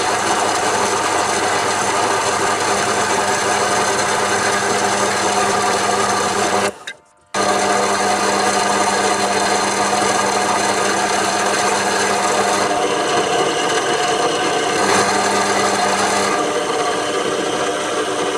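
Metal lathe running and cutting a metal workpiece: a steady motor and gear hum with rough cutting noise over it. The sound breaks off for about half a second roughly seven seconds in.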